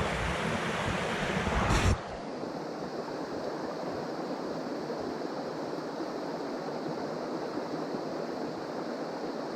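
Steady rush of a mountain stream's flowing water. For the first two seconds it comes with a low rumble, then about two seconds in it changes abruptly to an even, steady rush.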